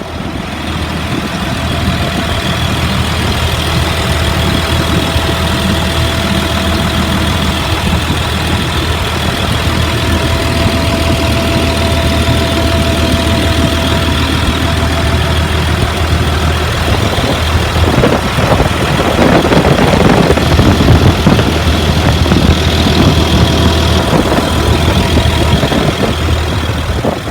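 A 2004 Blue Bird All American school bus engine idling smoothly and steadily, heard up close. It grows louder for several seconds past the middle, then settles back.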